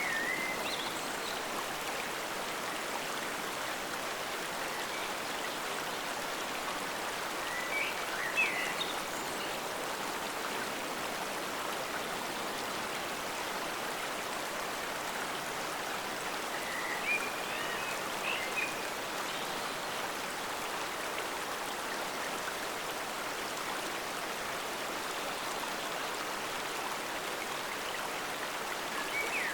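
Forest stream flowing steadily, an even rush of running water. A few brief higher-pitched sounds stand out over it every eight to ten seconds or so.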